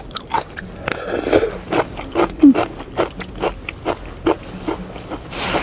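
A person chewing a mouthful of noodles close to the microphone: a run of soft wet mouth clicks, two or three a second, with a short hiss about a second in and another near the end.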